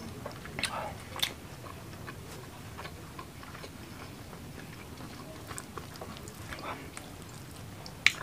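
A man chewing a mouthful of fried short mackerel and rice with chili sambal: wet mouth clicks and smacks, with a sharp click near the end.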